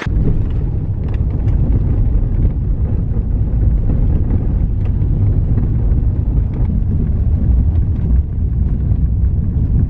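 SUV driving along a road: a steady, loud low rumble of tyre and wind noise, with faint scattered ticks.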